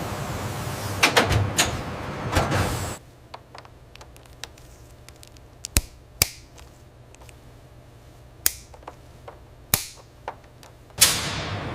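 Factory ambience: a loud noisy hum for the first few seconds, then a quiet stretch broken by scattered sharp mechanical clicks and knocks, with the hum coming back near the end.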